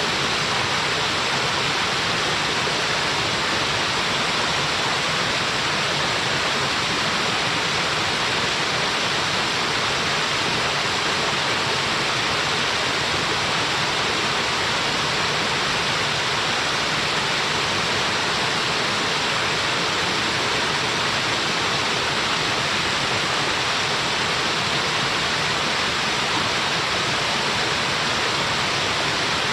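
Small waterfall splashing, a steady, even rush of falling water.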